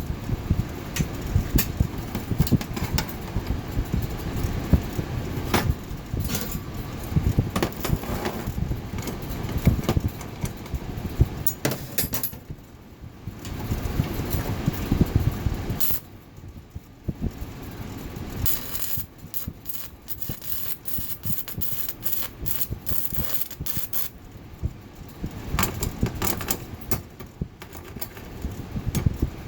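Electric arc welding an insert onto a steel horseshoe, with a dense steady crackle of the arc in runs of several seconds, broken by short pauses between weld passes.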